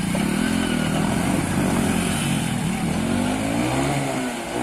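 Motor vehicle engine running and revving, its pitch rising and falling several times.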